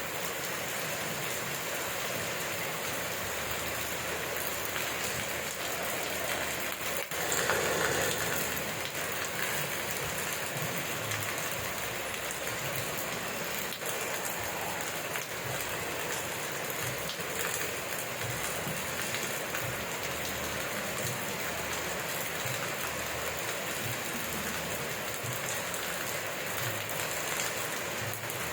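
Steady rain falling on surfaces, an even hiss of drops with a brief louder swell about eight seconds in.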